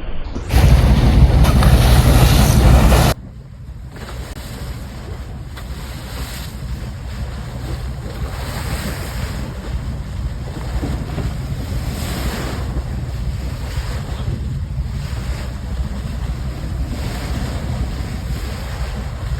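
Sea water rushing along a ship's bow as it moves under way, swelling and easing in waves, over a steady low rumble. Wind buffets the microphone hard for the first few seconds and then stops abruptly.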